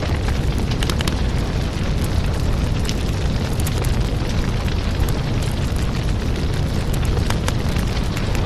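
Firewood burning: a steady low rumble of flames with scattered sharp crackles and pops from the wood.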